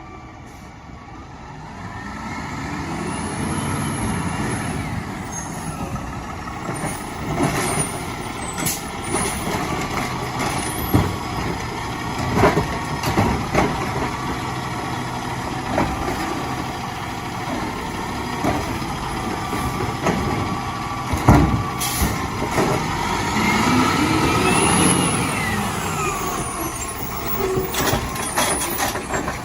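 Side-loader recycling truck working: its engine revs up and falls back twice, with many clanks and knocks in between.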